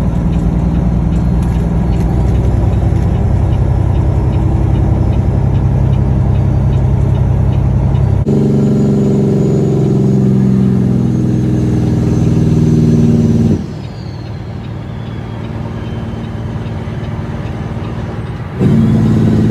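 Diesel engine of a Peterbilt 362 cabover truck running. Its note changes abruptly three times: higher about eight seconds in, much quieter about thirteen and a half seconds in, then loud again near the end.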